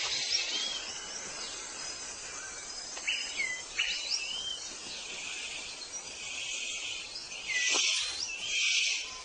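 Birds calling in short whistled chirps that slide up and down in pitch, over a steady high insect-like hiss that swells louder about two-thirds of the way through.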